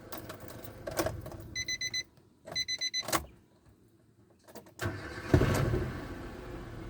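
Nissan Almera engine stopping, a couple of short runs of quick electronic beeps, a brief quiet, then the engine cranking and catching about five seconds in and running on steadily.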